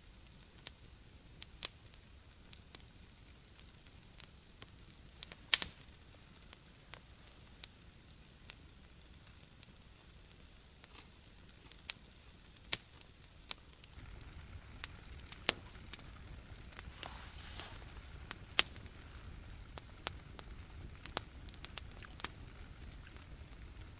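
Campfire crackling: irregular sharp pops and snaps of burning wood, over a low background rumble that grows louder about halfway through.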